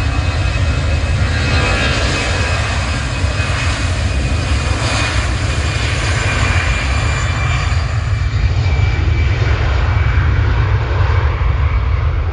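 Airliner's engines passing close by: a heavy rumble with a thin whine on top, fading away after about eight seconds.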